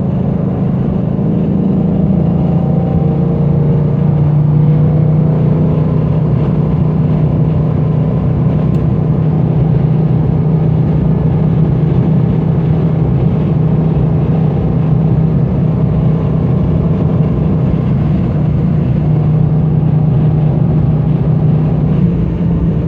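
1970 Dodge Challenger R/T's 440 Magnum V8 running at a steady engine speed, with its pitch settling slightly lower about two seconds in.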